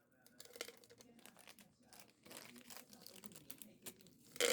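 Crinkling and crackling of a peanut snack packet handled close to the microphone, with a louder burst of crackling near the end.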